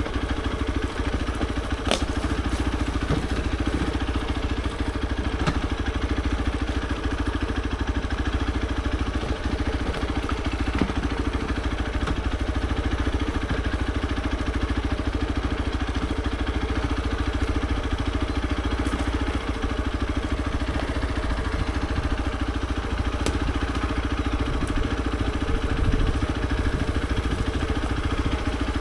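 Hero XPulse 200 4V's single-cylinder four-valve engine running steadily at an even pitch, with a few faint clicks.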